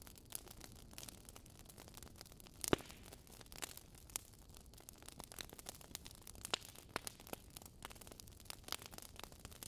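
Faint crackling fire: a low hiss with irregular snaps and pops, one sharper pop a little under three seconds in.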